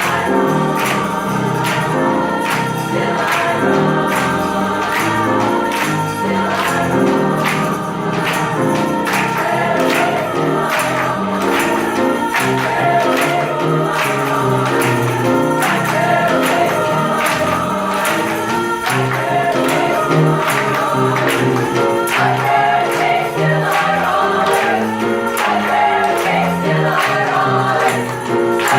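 High school choir singing in parts over a steady percussive beat of regular sharp strikes.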